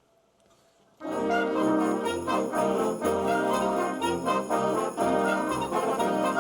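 A school band begins a Christmas piece about a second in, starting suddenly: brass playing over a steady pulsing bass line, with jingle bells shaking throughout.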